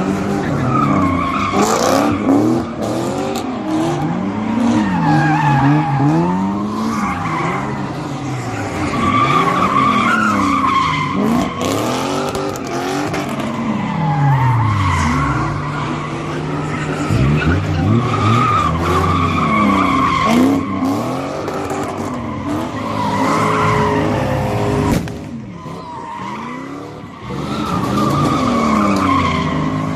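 Car engine revving up and down over and over while the tyres squeal and skid under wheelspin, as in sideshow donuts. The sound drops off briefly near the end, then picks up again.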